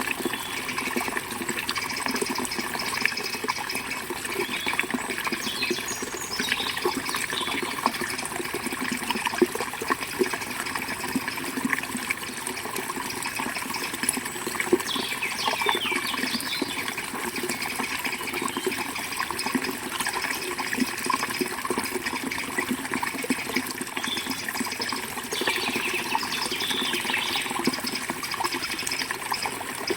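Forest river water flowing steadily, with birds chirping now and then above it.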